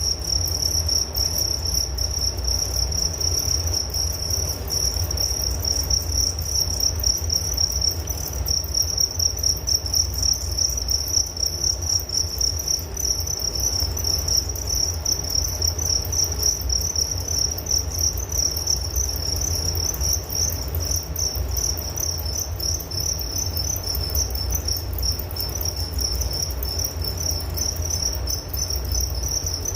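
Crickets chirping in a steady, fast, high-pitched trill that never breaks, over a constant low rumble.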